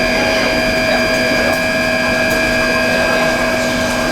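Plastic pelletizing line machinery running steadily: a constant machine noise with a steady whine made of several fixed tones.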